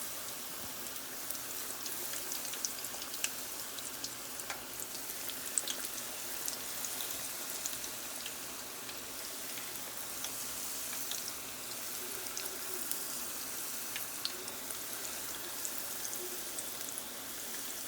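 Battered chicken pieces deep-frying in hot oil: a steady sizzle with scattered small crackles and pops.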